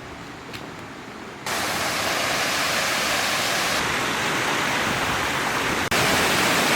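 Rushing water of a waterfall, a steady hiss with no pitch. It jumps louder suddenly about a second and a half in and again near the end.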